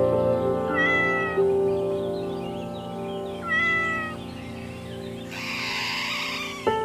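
A domestic cat meowing twice, about a second in and again around the middle, over soft background music with held notes. A short burst of noise follows near the end.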